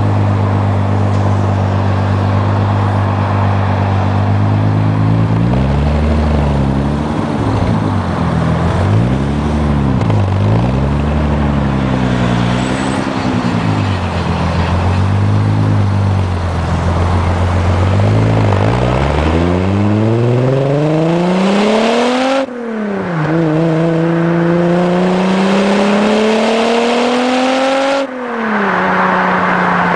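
VW Corrado VR6 engine and exhaust: it idles, is blipped up and down several times, then pulls away, rising in pitch through two upshifts about five seconds apart, each with a brief drop in pitch and loudness, and settles to a steady cruise near the end.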